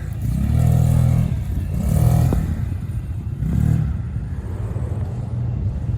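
UTV engine revving in about three short surges, then running more steadily at lower revs for the last couple of seconds.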